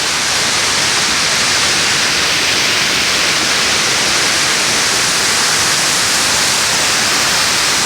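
Waterfall at El Chiflón, a steady loud rush of falling water with no breaks or change.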